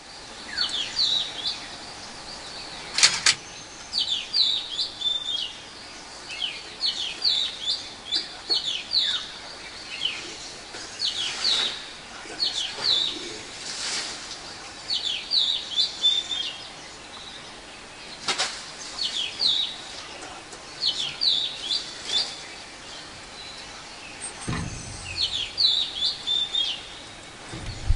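Wild birds chirping over and over in short, high-pitched phrases every second or two. There are a couple of sharp clicks along the way and a brief low thud near the end.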